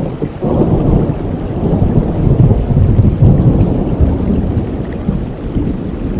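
Steady rain with a long, low rumble of thunder that swells about half a second in and slowly eases off toward the end.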